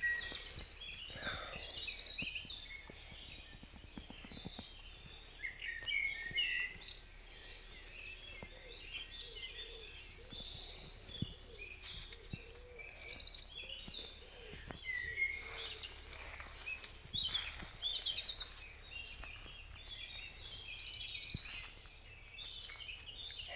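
Songbirds singing: many short chirps and fast trills, over a faint steady low background hum.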